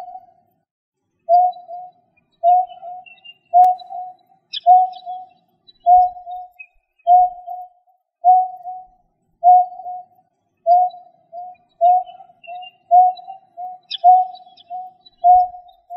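Greater painted-snipe calling: a long series of short, low, cooing hoots, about one a second at first, coming faster and in pairs near the end. A few faint high chirps sound twice in the background.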